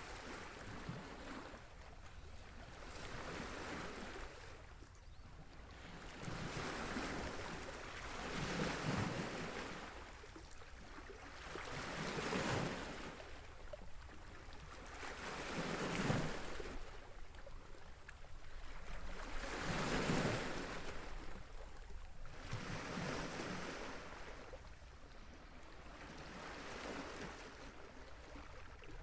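Waves washing in on the shore, a rushing hiss that swells and falls back in slow surges about every three to four seconds.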